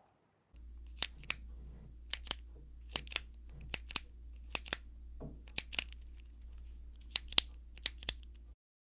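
Sharp, crisp clicks in quick pairs, eight pairs at roughly one pair a second, over a low steady hum that cuts off near the end.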